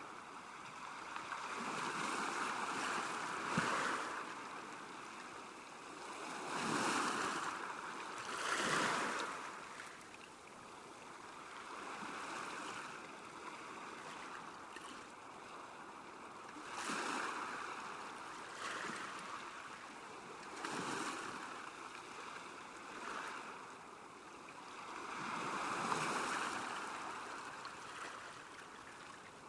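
Small waves lapping at a lake shore: water noise swelling and falling in irregular surges a few seconds apart, a couple ending in a short splash.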